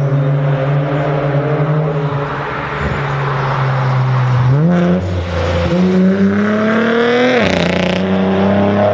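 Twin-turbo V6 of an Infiniti Q60 with its muffler and resonator deleted, cruising with a steady exhaust drone and then accelerating. The engine note rises twice and falls sharply about seven and a half seconds in, with a short rush of hiss as the revs drop.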